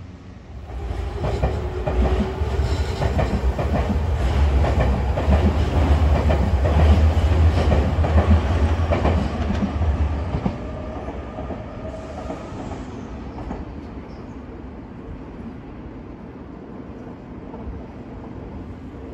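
Nankai electric commuter train running along the elevated tracks, its wheels clattering over the rail joints over a deep rumble. It is loud for about ten seconds and then fades as the train moves off.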